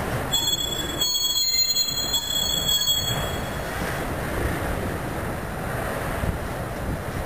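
Freight train of enclosed autorack cars rolling past with a steady rumble of wheels on rail. From about half a second to three seconds in, a high-pitched wheel squeal of several steady tones rides over the rumble.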